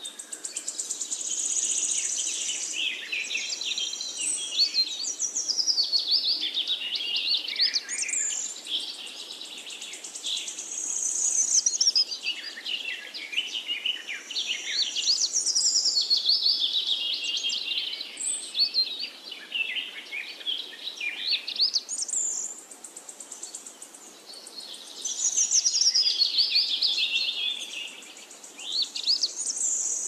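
A songbird singing a long run of quick, varied chirps and whistles, in bouts of several seconds separated by short pauses.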